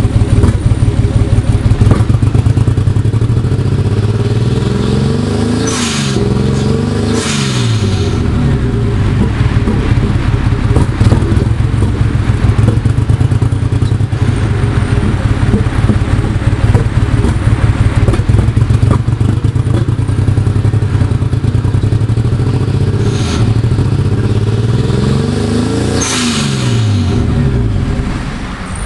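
Nissan RB25DET turbocharged inline-six running rough and uneven, misfiring, with the revs rising and falling briefly a few times.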